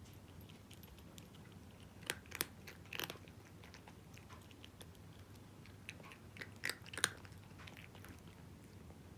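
A cat crunching dry kibble, in two short bursts of bites: one about two seconds in and another about six seconds in.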